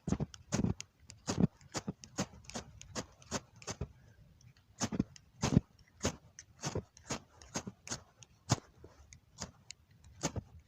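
Fire steel (ferro rod) being struck again and again with a scraper, short sharp scrapes coming unevenly about three a second, trying to light paper tinder that does not catch.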